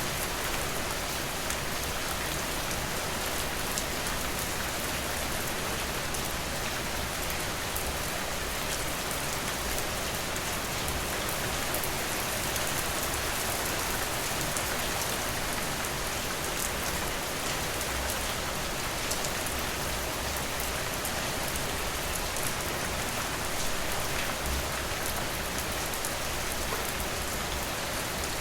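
Steady rain falling, with fine pattering drops.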